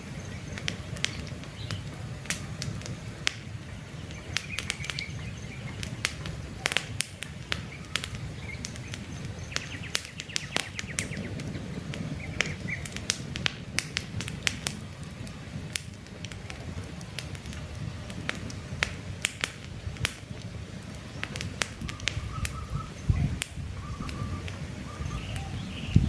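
Campfire crackling with frequent sharp pops over a low steady rumble of the flames, while birds chirp now and then in short bursts.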